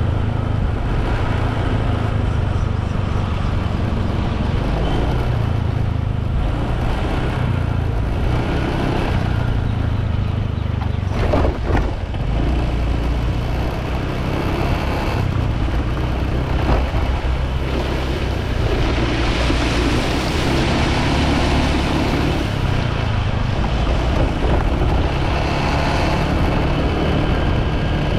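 Wind and road noise on the microphone of a moving motorbike, a steady low rumble with the engine underneath. A brief knock cuts through about halfway through.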